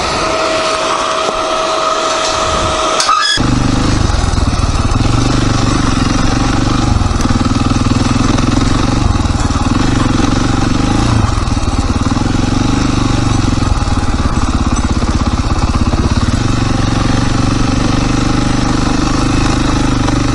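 Dirt bike engine running steadily, coming in abruptly about three seconds in after a steady high whine.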